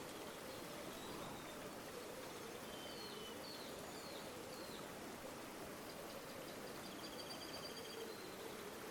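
River water flowing, a steady rushing hiss. Small birds call faintly over it: a few short high chirps about three seconds in, then a rapid high trill near the end.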